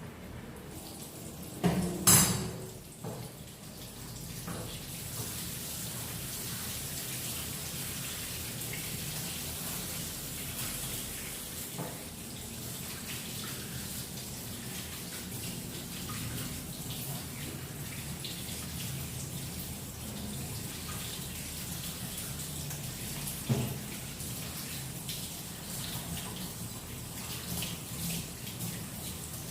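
Flour-coated chicken pieces deep-frying in hot oil: a steady sizzle, with a loud clatter about two seconds in and a single knock later.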